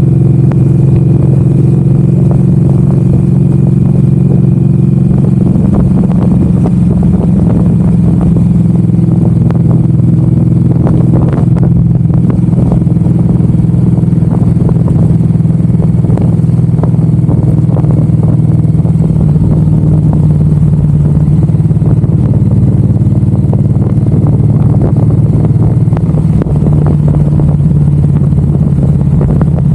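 Suzuki M109R's V-twin engine running steadily while riding at a cruise, its pitch shifting slightly a couple of times in the second half.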